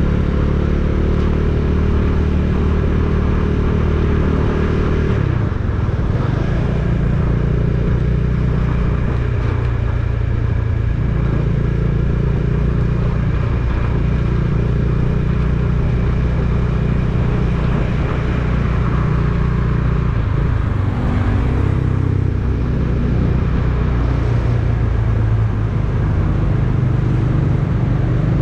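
A motor vehicle's engine running steadily while under way, with road noise. The engine note drops and changes about five seconds in.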